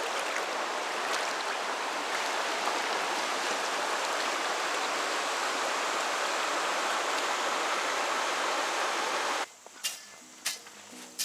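Fast-flowing forest stream rushing steadily, its current strong and swollen from heavy rain. It cuts off abruptly about nine and a half seconds in, giving way to quieter music with sharp, separate notes.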